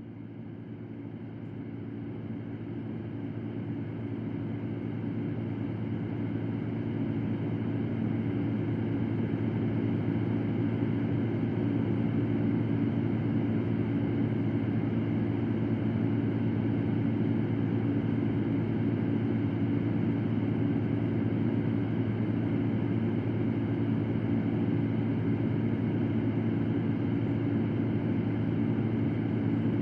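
Electric fan running with a steady hum and airy whoosh. It fades in over roughly the first ten seconds, then holds at a constant level.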